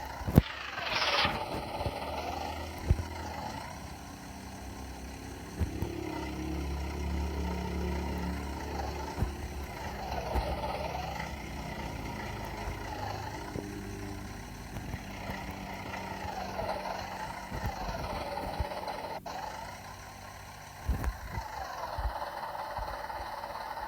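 Cartoon sound effects of construction vehicle engines running, with repeated falling-then-rising pitch sweeps every few seconds and occasional sharp knocks and clatter.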